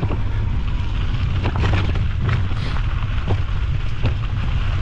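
Wind buffeting the microphone during an e-bike ride, a steady heavy rumble, with scattered short clicks and knocks from the bike.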